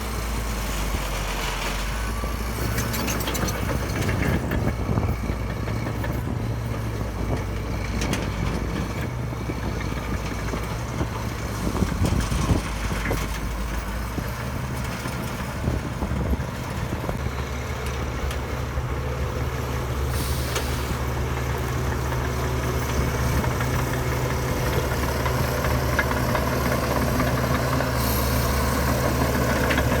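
Heavy diesel earthmoving machinery running steadily. The engine note changes about halfway through, and there are a few louder clanks a little before that.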